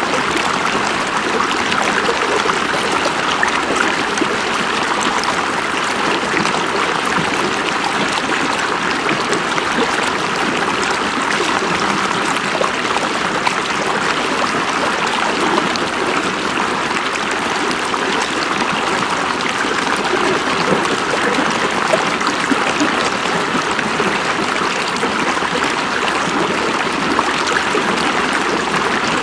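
A river or stream flowing over rocks: a steady, unbroken rush of water with fine splashing and gurgling.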